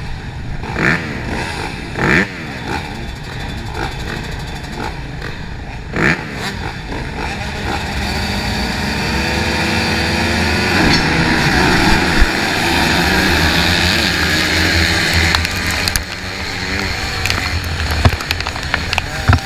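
Motorcycle engine running and revving, its pitch rising and falling as the bike pulls away, with a few short knocks early on. From about eight seconds in, wind rushing over the microphone grows louder as the speed builds.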